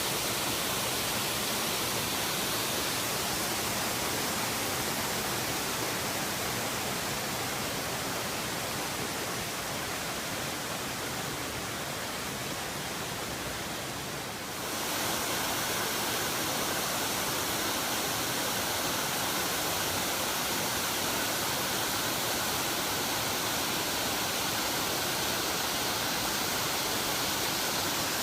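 Waterfall: a steady rush of falling water, which dips slightly and then changes character abruptly about halfway through.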